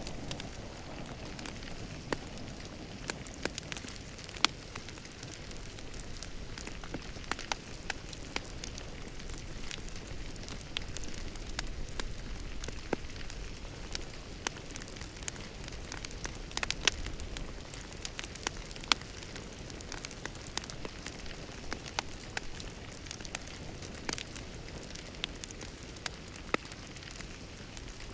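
Wood fire crackling in a fireplace: a steady low hiss with irregular sharp pops and snaps, a few of them louder.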